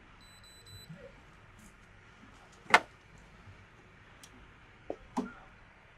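A faint, short high electronic beep just after the start, then one sharp click a little before the middle, and two lighter knocks close together near the end.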